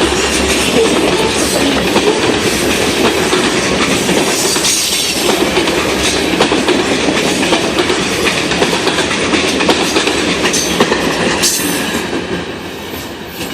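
Freight cars of a CSX grain train rolling over jointed rail, their wheels clacking at the rail joints in an uneven run of clicks over a steady rumble. The sound fades near the end.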